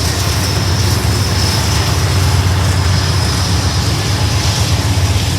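A train running steadily, with a continuous low rumble and a faint high whine above it.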